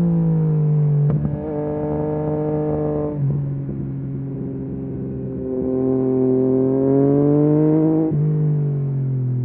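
Yamaha MT-09 SP three-cylinder engine through a full Akrapovic race exhaust, pulling under throttle. Its pitch drops sharply three times, about a second in, about three seconds in and about eight seconds in, with slow climbs in between: upshifts as the bike accelerates.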